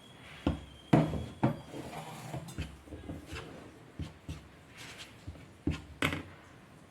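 Flour batter being mixed in a bowl: irregular knocks and scrapes of the utensil against the bowl, the loudest about a second in.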